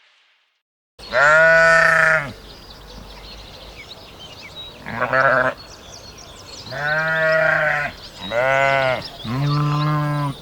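A farm animal bleating: five loud calls, the first and longest just after a second of silence, with faint high bird chirps in between.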